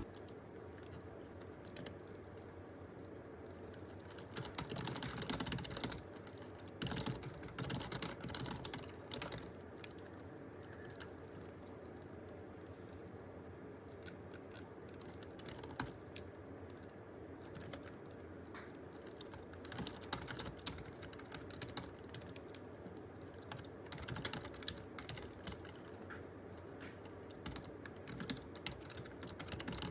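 Typing on a computer keyboard: irregular runs of key clicks, busier a few seconds in and again toward the end, over a steady low hum.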